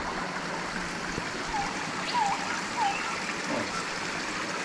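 Waterfall pouring onto a beach: a steady rush of falling and splashing water. A few short, faint chirps sound over it.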